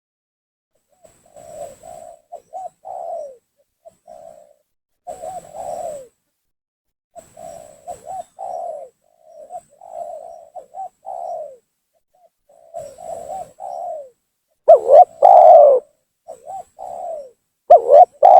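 Spotted dove cooing in repeated phrases of several low notes, a phrase every second or two, with two much louder phrases near the end.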